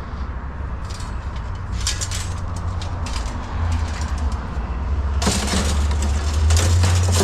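Scrap metal being handled, with scattered clanks and rattles that become a dense clatter about five seconds in, over a low steady engine rumble from a vehicle.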